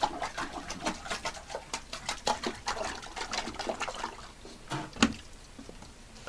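Dog lapping water from a toilet bowl: a quick, uneven run of wet slurps and splashes that thins out near the end, with one sharper click about five seconds in.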